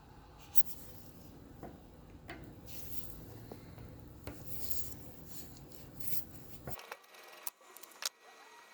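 Hand work on small metal fan parts: scraping and rubbing, with a few sharp clicks and taps, the loudest near the end.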